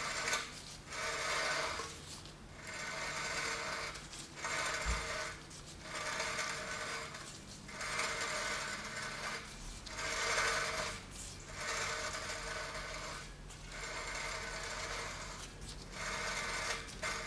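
Volvo 940 rear axle's crown wheel and pinion being turned by hand in repeated strokes, the oil-drained gears rubbing and rasping, about once every one and a half seconds while the teeth are counted to work out the diff ratio.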